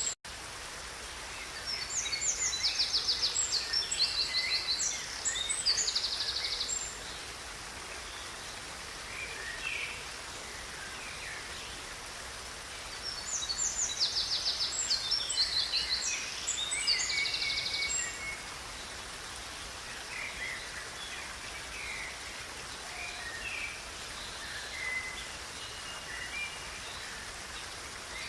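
Songbirds singing over a steady rushing of river water: two long bursts of rapid, high song, one near the start and one about halfway through, with scattered single chirps in between.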